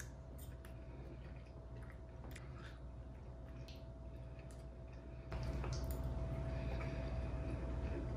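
Faint mouth sounds of a man chewing a bite of crab cake, with a few small clicks of a metal fork, over a steady low hum.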